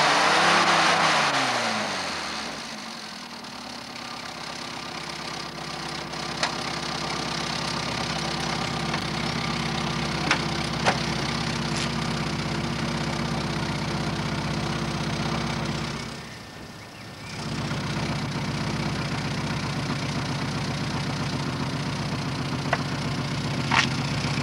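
Classic Mini's four-cylinder A-series engine, its revs falling away at the start and settling into a steady idle. The idle dips briefly about two-thirds of the way through, then picks up again, with a few sharp clicks along the way.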